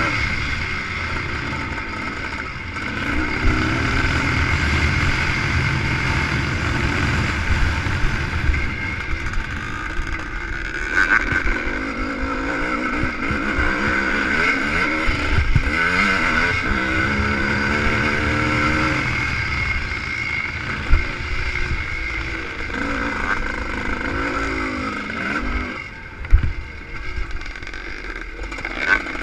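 ČZ two-stroke motocross motorcycle engine heard from on board, revving up and down repeatedly as the rider works the throttle and gears around a dirt track. Two sharp knocks come late on, and the engine eases off near the end.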